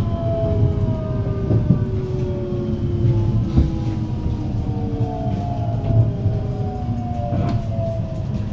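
521 series electric train heard from inside the car: motor whine falling steadily in pitch as the train slows into a station, over a steady low running rumble. A few sharp knocks come through, about a second or two apart.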